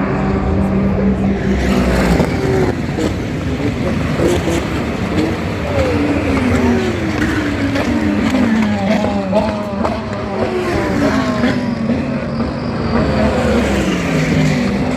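GT race car engines running at speed past the track, their pitch sliding down and then climbing and dropping again and again with gear changes.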